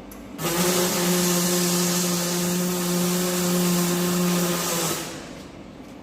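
Electric arc welding on a steel chassis frame: one steady burst of buzzing, hissing arc, about four and a half seconds long. It starts abruptly just after the beginning and stops near the end.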